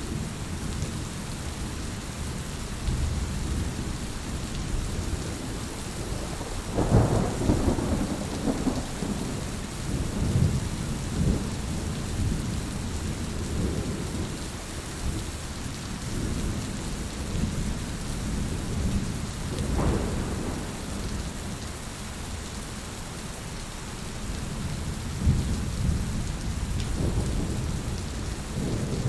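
Steady rain falling, with low rolls of thunder rumbling in several times, the strongest about seven seconds in and again near the end.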